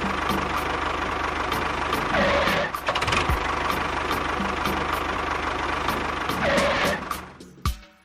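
An engine running steadily with a regular ticking knock about twice a second, stopping abruptly about seven seconds in.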